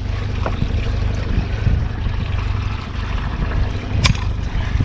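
Boat on the water: a steady low rumble with water sloshing, and one sharp click about four seconds in.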